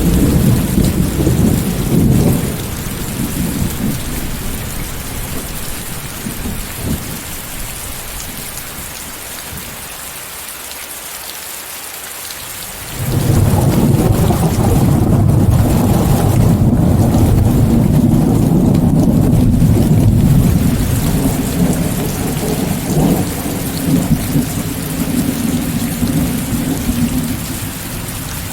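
Steady hiss of heavy rain mixed with white noise, with thunder. A rumble at the start dies away. Then, about halfway through, a long, loud roll of thunder breaks in suddenly and keeps rumbling, easing slightly near the end.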